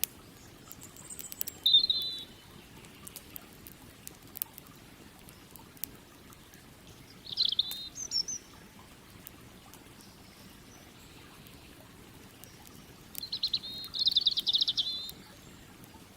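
A small bird calling in short chirping trills: one about two seconds in, one near the middle, and a longer run of trills near the end. Under it, a campfire crackles with scattered small pops over a faint steady rush of river water.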